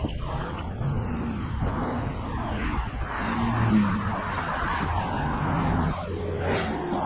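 Wind rushing over the microphone and road rumble while a Monday Motorbikes Gateway electric bike is ridden at speed, with a few faint changing tones mixed in.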